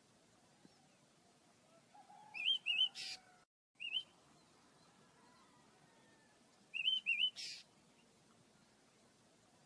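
Pet bird calling a short repeated phrase, twice: two quick chirps followed by a harsh buzzy note, about four seconds apart.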